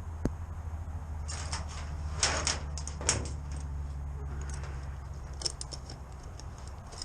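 Metal clinks and scrapes of refrigeration gauge hose fittings being worked at a tight access valve, a sharp click near the start and a cluster of rattles around two to three seconds in, over a steady low hum.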